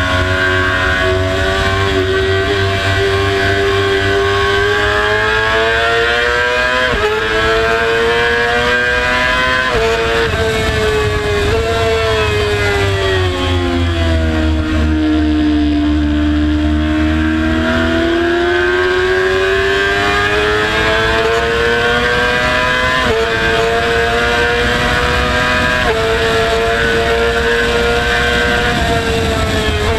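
Motorcycle engine at speed on a racetrack, its revs climbing and dropping sharply at each quick upshift. The revs fall away smoothly into a slower corner about halfway, then build again through several more shifts.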